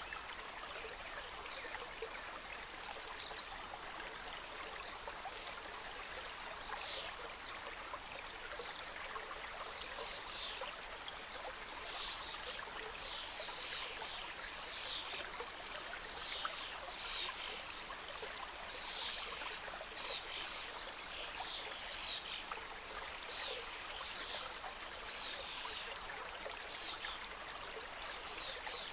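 Mountain stream cascading through forest: a steady rush of flowing water with trickling, and from about seven seconds in, many short high-pitched sounds over it.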